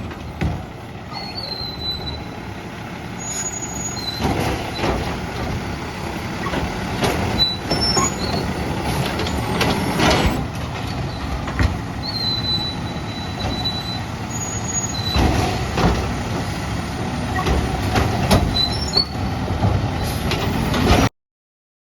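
Peterbilt garbage truck with a Labrie Automizer side-loader body running, with repeated clanks and knocks and a few short high squeals over the engine. The sound cuts off suddenly near the end.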